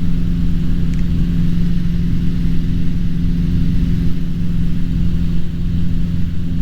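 Cessna 150's four-cylinder Continental O-200 engine and propeller drone at climb power, a steady, unchanging tone over a low rumble.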